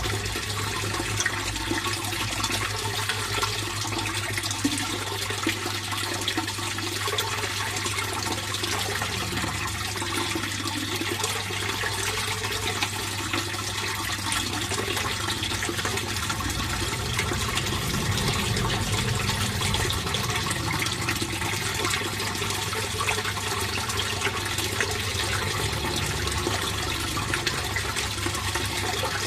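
Fish pond water flowing steadily: a continuous, even splashing rush.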